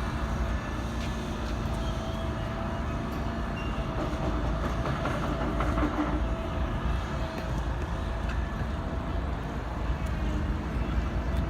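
A train running past: a steady low rumble with faint steady tones over it.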